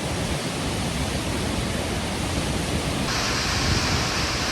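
Steady rush of a large mountain waterfall, the Gergeti Waterfall, falling water heard as an even wash of noise. A little over three seconds in the sound turns brighter and hissier.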